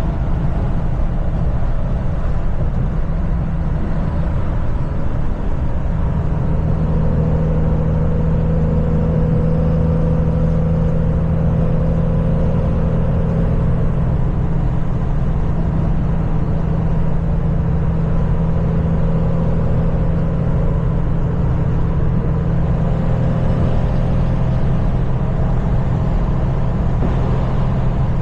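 Kenworth semi truck driving: the diesel engine and road noise make a steady low drone, and the engine's tone grows stronger about six seconds in and holds.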